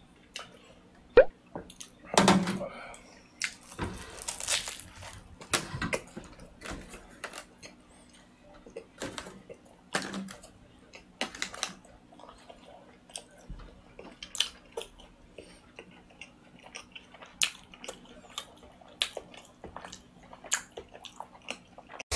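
Close-miked chewing and mouth sounds of a man eating a cocoa-dusted chocolate pastry, in many short, irregular clicks and soft wet smacks.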